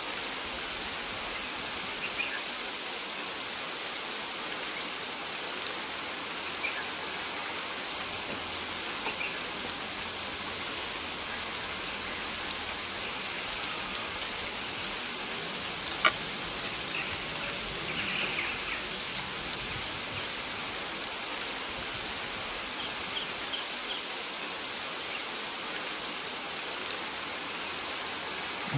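Steady rain falling, an even hiss with scattered drops ticking on surfaces; one sharper tick about sixteen seconds in.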